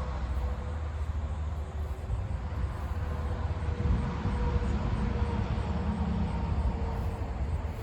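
Steady low rumble of distant motor traffic, with a faint engine hum that swells slightly midway.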